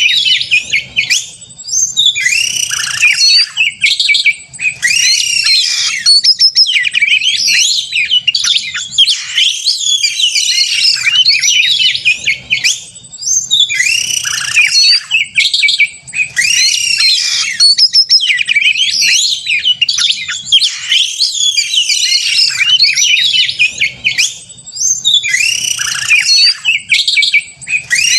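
Oriental magpie-robin (kacer) singing loudly and without letup in rapid, varied whistled and chattering phrases, broken by brief pauses every few seconds. This is the male's agitated 'gacor konslet' fighting song, used as a lure to provoke other kacer into singing.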